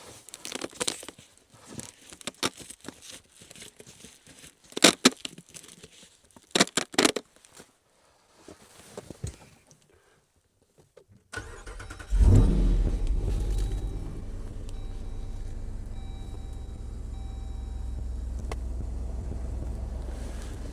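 Scattered clunks and rattles for about the first ten seconds, then a Jeep Wrangler engine starts about twelve seconds in, revs up briefly and settles into a steady idle.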